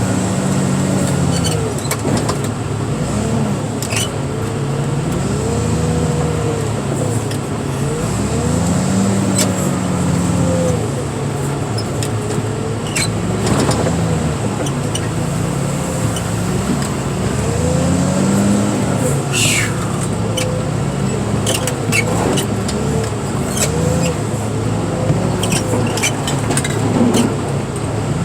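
Heavy diesel machinery engine running under hydraulic load at car-crushing work, its pitch dipping and rising again every few seconds as the load comes and goes. Scattered sharp clanks and knocks are mixed in.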